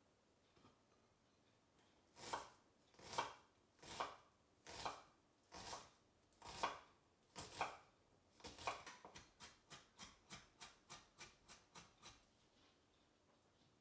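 Kitchen knife chopping on a cutting board: slow, separate cuts at first, then a quicker run of about four chops a second before it stops.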